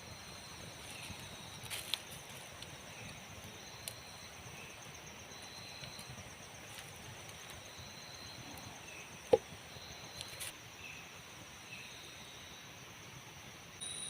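Insects trilling steadily at several high pitches, one with a fast pulsing trill and others chirping on and off. A few soft clicks are heard, and one sharp knock about nine seconds in.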